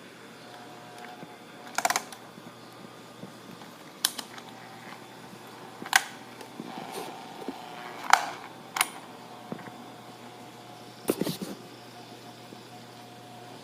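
Asahi PF 620 electric fan running with a steady buzzing hum, broken by sharp rattling clicks every couple of seconds at uneven intervals: the fan has a fault that makes it buzz and rattle.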